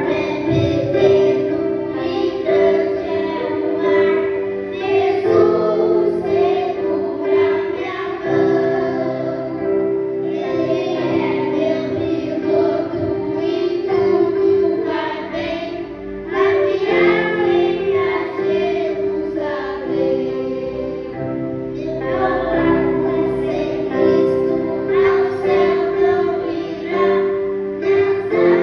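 A group of children singing a song together over music.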